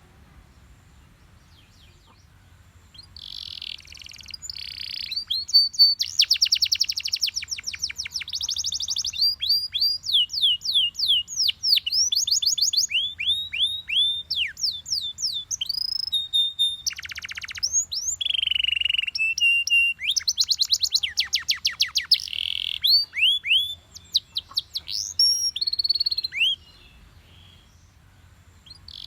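Canary singing one long, varied song of fast trills, runs of repeated falling whistled notes and short held notes. The song starts about three seconds in and stops a couple of seconds before the end.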